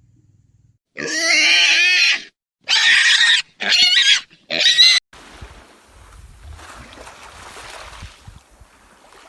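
Pig squealing: four loud, wavering calls in about four seconds, the first the longest, followed by a quieter stretch of low background noise.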